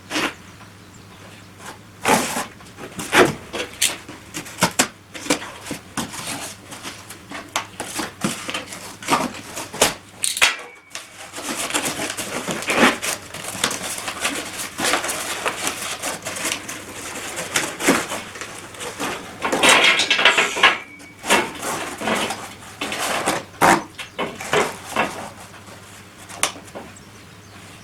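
Steel parts being handled and knocked together, with repeated clinks and clanks of metal on metal. A brief gap comes about ten seconds in, and a steady hiss runs under the clinks for a while after it.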